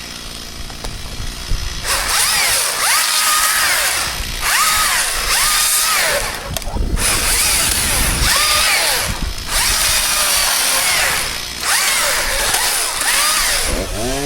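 Chainsaw cutting, starting about two seconds in and going in a series of stretches with short breaks. Its engine pitch dips and recovers under load.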